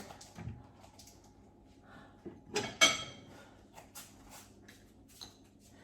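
Kitchen dishware being handled: a few light knocks and clicks, and one louder ringing clink of a dish about three seconds in.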